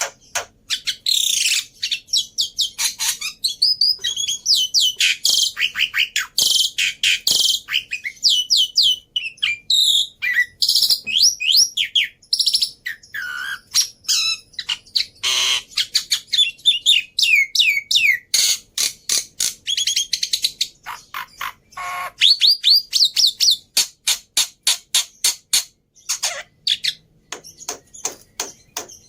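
Songbird singing a varied, fast song of rapid chirp runs, trills and whistled glides, as used in a lure and master-song track for training black-winged starlings.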